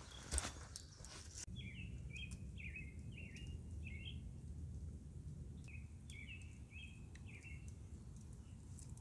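A small bird calling in two runs of short, quick notes, five or six in each run, the second starting a couple of seconds after the first ends. Before the calls, a second and a half of rustling and light knocks cuts off abruptly.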